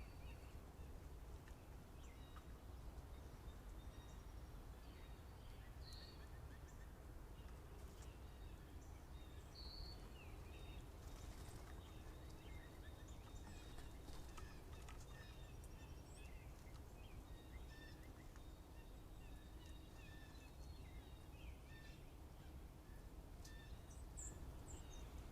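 Faint, scattered bird chirps and short calls over a steady low background rumble, with two slightly louder short notes about six and ten seconds in and a few high chirps near the end.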